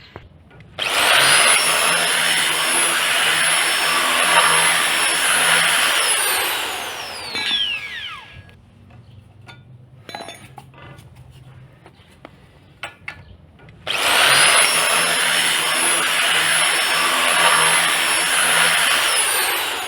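Handheld power tool run hard in two bursts of about six seconds each, its high motor whine falling away as it spins down after each burst.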